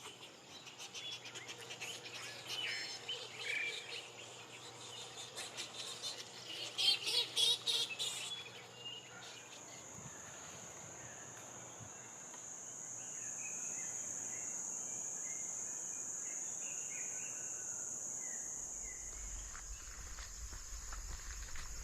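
Wild animal ambience: high squeaky chirping calls for the first eight seconds, loudest around seven seconds, then a steady high-pitched insect drone, with a low rumble coming in near the end.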